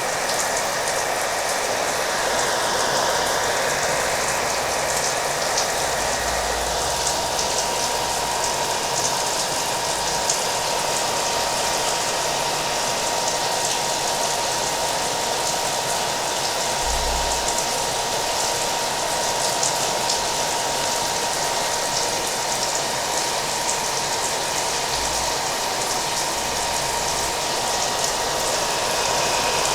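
Hair dryer running steadily, a constant rush of air with a thin steady whine, layered with rain falling in a fine patter of drops.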